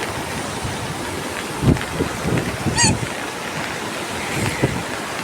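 Flooded river after heavy rain, the water rushing and churning steadily. A few low thumps of wind on the microphone near the middle.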